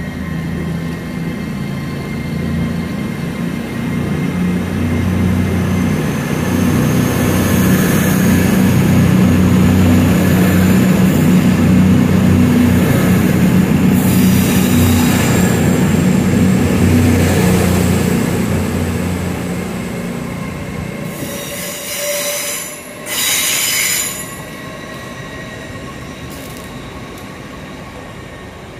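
Passenger train passing through the station: the heavy low running note of the train swells to a peak and then dies away, with thin high-pitched wheel squeal over it. A short burst of rushing noise follows near the end.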